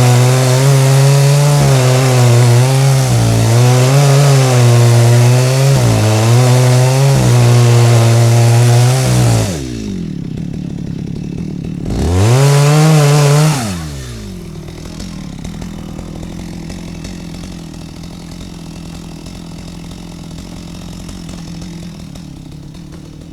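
Stihl MS 250 two-stroke chainsaw running at full throttle in a cut, its pitch wavering as the chain bites into the wood. About nine seconds in it drops to idle, is blipped once a couple of seconds later, and falls back to a quieter idle.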